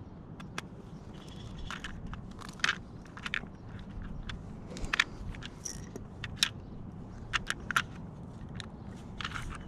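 Small loose metal hardware clinking and rattling: a scattered run of sharp clicks and jingles, the sound of rummaging through nuts and bolts.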